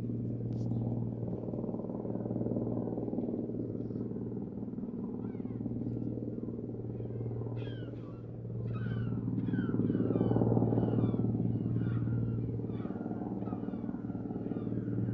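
Helicopter in flight, a steady droning hum that grows louder and fuller about two-thirds of the way through as it comes nearer.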